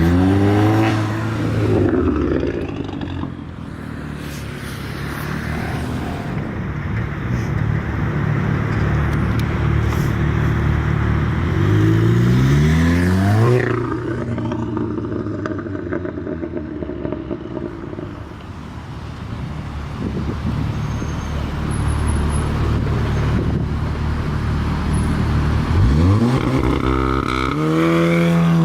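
Volkswagen-group hot hatches such as Golf GTI and Golf R accelerating hard past, three times, each engine note climbing steeply in pitch. A steady low engine and traffic rumble runs in between.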